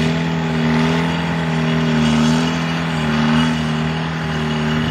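Diesel engine of a Wagner four-wheel-drive tractor running steadily, its pitch wavering slightly up and down.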